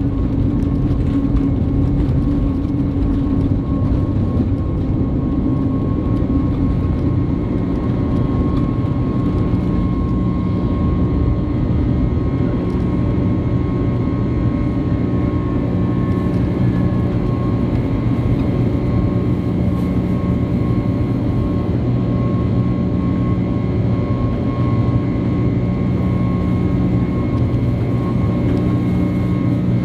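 Airbus A321neo jet engines and airflow heard inside the cabin: a steady, loud noise with steady engine tones running through it. About ten seconds in, a pair of low tones grows stronger.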